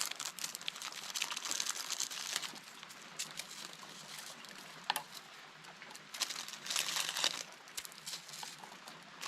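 Plastic food packaging crinkling in bursts as crackers and cheese are handled, busiest in the first two seconds and again about seven seconds in, with a single sharp click about five seconds in.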